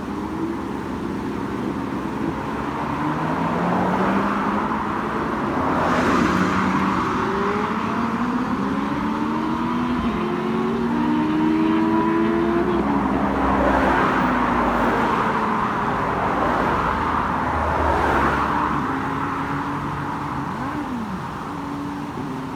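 A string of motorcycles passing at speed one after another, their engine notes rising and falling as each goes by, with several louder passes through the middle.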